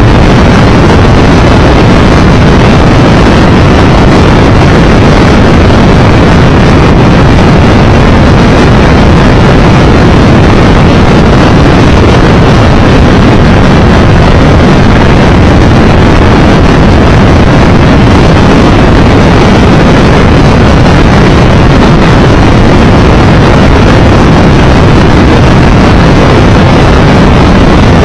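Steady roar of wind over the microphone on a motorcycle moving at road speed, loud and heaviest in the low end, with the riding noise of the Triumph Tiger Explorer 1200 mixed in.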